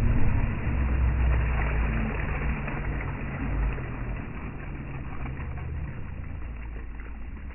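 Boat engine running with a low, steady drone that slowly grows quieter.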